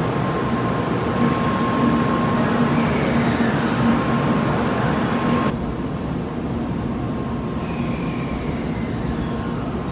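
Shinkansen train's air brakes releasing: a steady hiss of compressed air over a constant electrical hum. The sound changes abruptly about halfway through, losing its high hiss.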